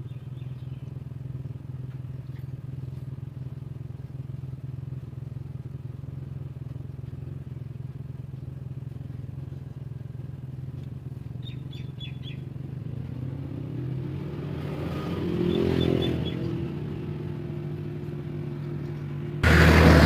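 Honda CD70 motorcycle's single-cylinder four-stroke engine idling steadily, revving up briefly about three-quarters of the way through, with a sudden much louder burst of engine noise near the end. A few faint bird chirps are heard.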